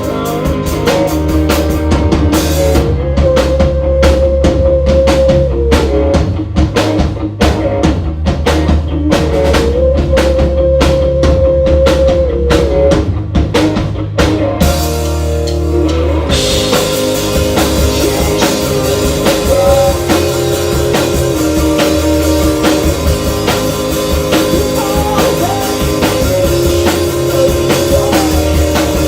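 Live rock band playing an instrumental passage, with drum kit, guitars and bass. About halfway through, the drums drop out for a couple of seconds, leaving only low held notes. Then the full band comes back in with cymbals.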